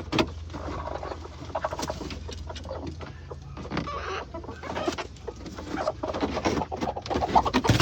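Broody hens clucking in short, irregular calls, mixed with scuffs and knocks.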